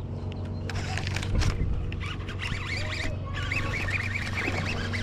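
A small bird singing a rapid run of repeated chirps through the second half, over a steady low hum, with a dull thump about a second and a half in.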